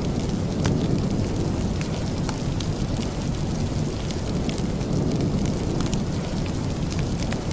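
Steady rain with a deep low rumble underneath and scattered sharp ticks.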